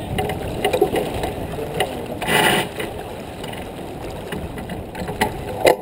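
Wind and water rushing around a J24 sailboat under way, with a louder rush of noise about two seconds in. Scattered clicks and knocks from the boat and its gear, the sharpest near the end.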